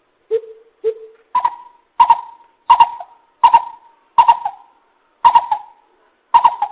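Greater coucal calling: a series of deep hooting notes about every two-thirds of a second. The first two are lower, and the rest are higher and louder, some of them doubled.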